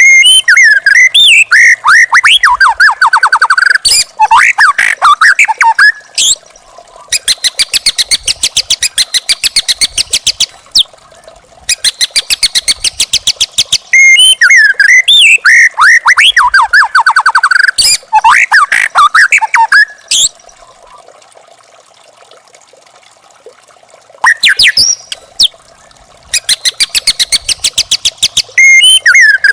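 Young wild white-rumped shama singing: runs of fast repeated chattering notes alternating with loud whistled phrases that slide up and down, in phrases that repeat, with a short lull about two-thirds of the way through.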